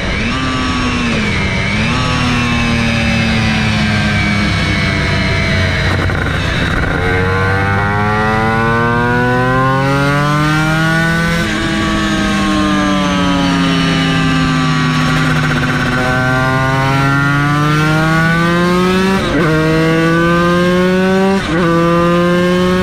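Yamaha TZ250 two-stroke V-twin racing engine under hard acceleration and braking: the pitch climbs and drops sharply at a gear change about eleven seconds in, falls away while slowing, then climbs again with two quick upshifts near the end.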